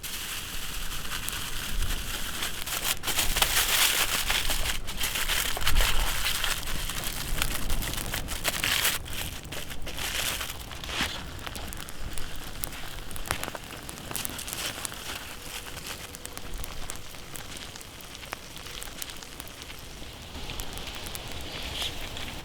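Pork ribs cooking on a grill over an open campfire: a steady sizzling hiss with many sharp crackles, louder for the first several seconds.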